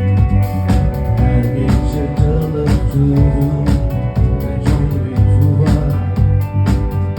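Live rock band playing: guitar over heavy bass, with a steady drum beat.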